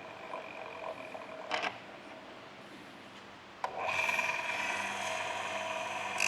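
Electric chainsaw sharpener running, its motor and grinding wheel giving a steady whine. About three and a half seconds in there is a click and it becomes markedly louder and stays so.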